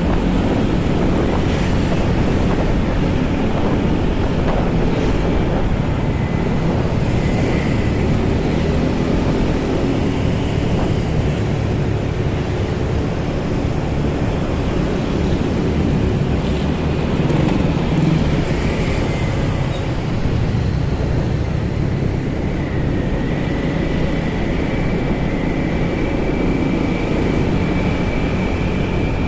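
Steady wind rush buffeting the microphone of a moving motorcycle, over the hum of road and traffic noise.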